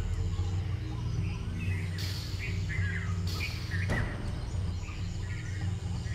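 Birds chirping over a steady low drone. A high hiss runs for about a second from two seconds in, and a single sharp crack comes just before four seconds.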